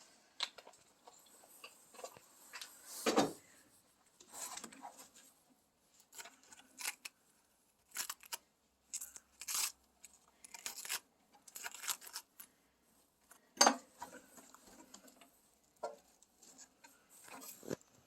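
A whole cabbage being bored through by hand, a tool twisted and pushed into its core: irregular crunching, creaking and scraping of the dense leaves in short bursts, with sharper crunches about three seconds in and again a little past halfway.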